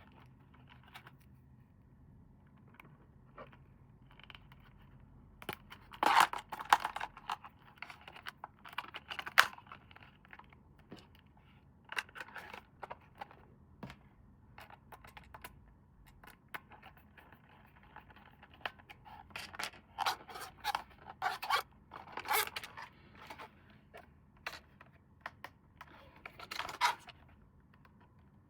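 Packaging and toy being handled during an unboxing: irregular scraping, tearing and clicking in clusters, loudest about six seconds in and again near the middle and end.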